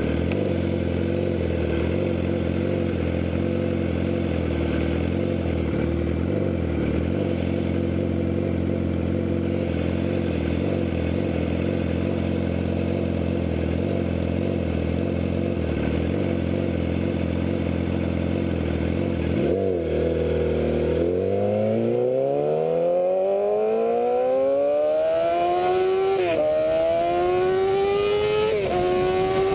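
Yamaha R6 motorcycle's inline-four engine running steadily at low revs, then about two-thirds of the way through the revs dip and climb as the bike pulls away, with two upshifts near the end.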